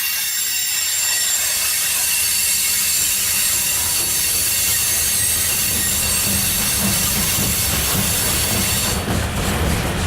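Loaded grain freight train's cars rolling past, their steel wheels squealing in high thin tones, with a rumble and clatter from the wheels that grows louder about halfway through.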